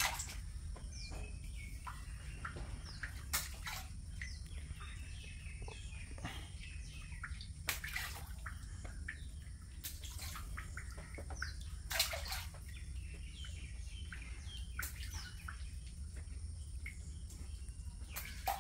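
Small birds chirping again and again over a steady low hum, with a few short, sharp splashes in the water. The loudest splash comes about twelve seconds in.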